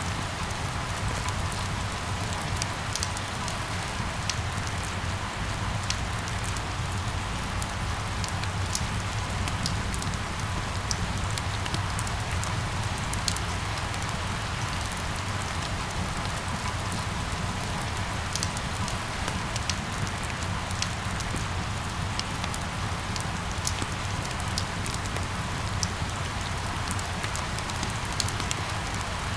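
Steady rain falling, with many scattered sharp drop ticks over an even hiss and a low steady rumble underneath.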